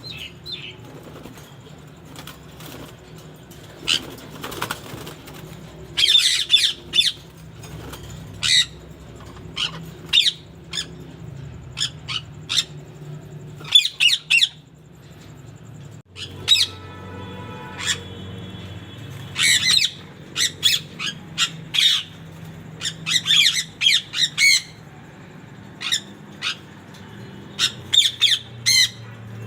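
Indian ringneck parakeets giving many short, shrill squawks in clusters throughout, over a low steady background hum.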